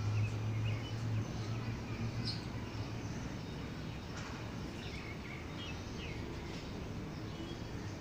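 Birds giving short, scattered chirps over steady outdoor background noise, with a low hum during the first second or so.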